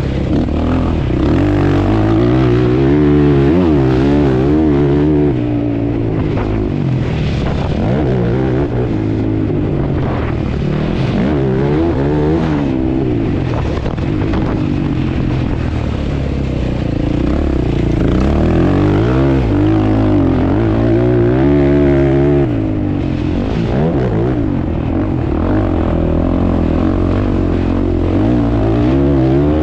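W-Tec ATV engine being ridden hard, its pitch rising and falling again and again as the throttle is opened and closed.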